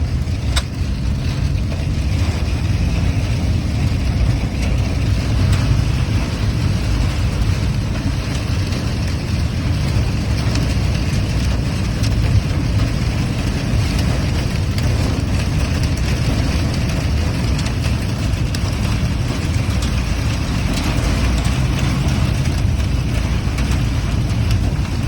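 Car interior noise while driving slowly: a steady low rumble of engine and tyres, with a few faint taps.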